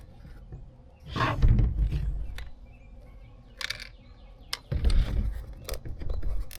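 Handling noise from a plastic tail light housing being picked up and turned over: two longer rough, rumbling scrapes, about a second in and again near the end, with a few light clicks between them.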